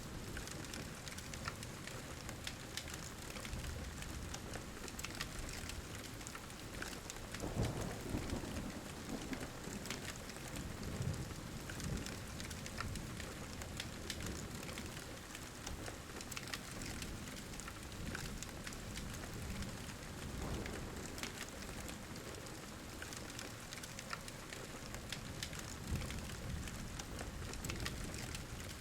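Steady heavy rain with thunder rumbling softly in low swells, and a wood fire crackling with small pops throughout.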